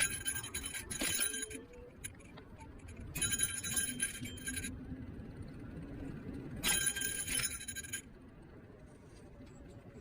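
Electric kick scooter riding, with three bursts of bright metallic jangling rattle that start and stop abruptly, over the low hum of the hub motor; a faint rising motor whine comes about a second in.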